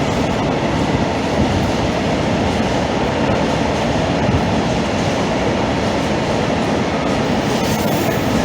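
Freight train hauled by a class 66 diesel locomotive passing through, a loud steady rumble of wheels on track with some clatter from the wagons.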